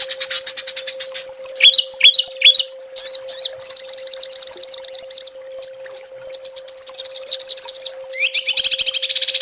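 Small songbirds singing rapid, high-pitched machine-gun trills ('tembakan') in bursts of a second or two with short breaks, and a long unbroken trill starting near the end. A faint steady hum runs underneath.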